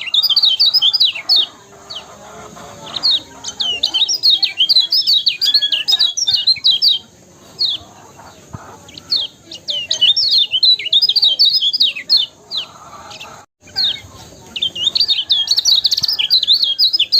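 Kecial kuning, a small yellow white-eye songbird, singing in quick, high, twittering chirps. It sings in several bouts a few seconds long with short pauses between them.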